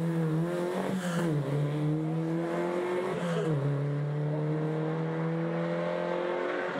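Rally-prepared Škoda 100-series saloon's engine accelerating hard up through the gears. The pitch climbs steadily and drops at each shift, about a second in, again around three and a half seconds and near the end.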